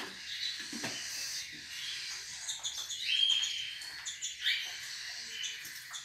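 Captive birds chirping and calling, a mix of short high notes with one longer whistled note about halfway through.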